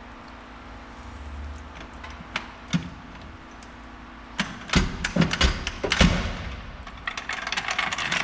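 Knocks and clunks of hand work on a car, with a few sharp clicks, then a cluster of loud hits about halfway through, followed by a run of rapid rattling clicks near the end, over a steady low hum.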